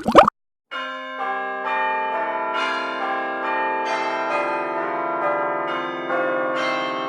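Loud rain and water noise cuts off abruptly early on; after a brief silence, bell-like chimes begin, a new note struck about every half second and each ringing on under the next.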